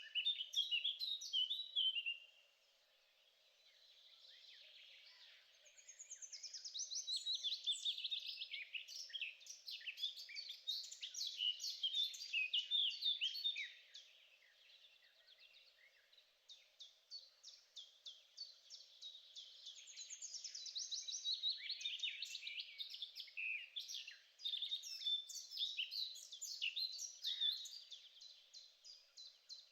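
Songbirds singing in long, fast phrases of chirps and trills, with short lulls between phrases.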